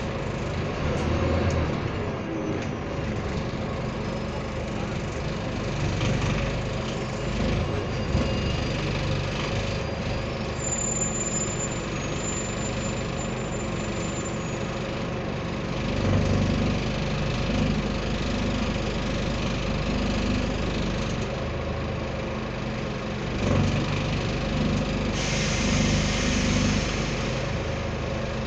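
Scania N230UD double-decker bus's five-cylinder diesel engine running, swelling and easing off in turn as the bus pulls away and slows. A short burst of hiss comes near the end.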